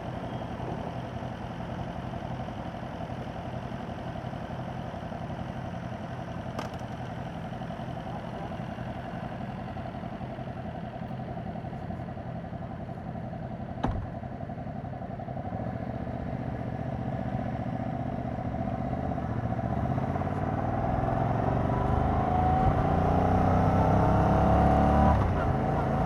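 A Yamaha MT-07's 689 cc parallel-twin engine, on its stock exhaust, running steadily at low revs. About two-thirds of the way through, the revs climb as the bike accelerates, then drop sharply near the end. There is a sharp click about halfway.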